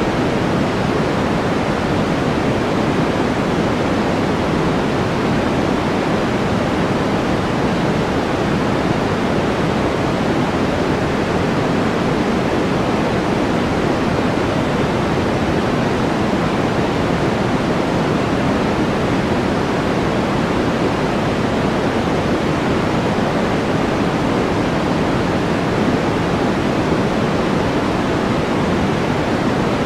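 Steady white-noise track: an even, unbroken rushing hiss, fuller in the low and middle range than in the highs.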